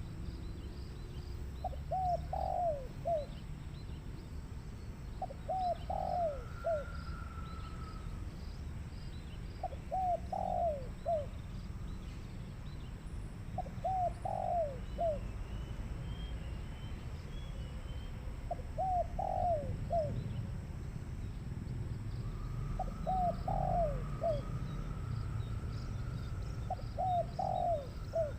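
Spotted dove cooing: a short phrase of a few quick coos, repeated about every four seconds. Other birds call faintly behind it.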